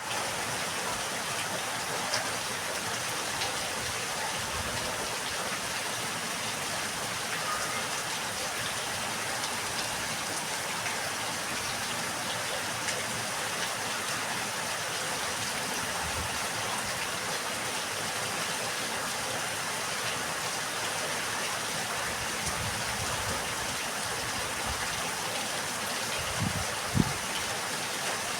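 Steady rain falling on a yard, an even hiss of drops throughout, with a few brief low thumps, the loudest near the end.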